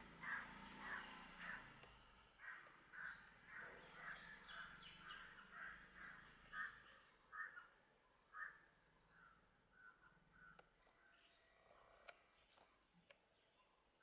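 Faint bird calls, short and repeated about twice a second, growing weaker and stopping about three-quarters of the way through.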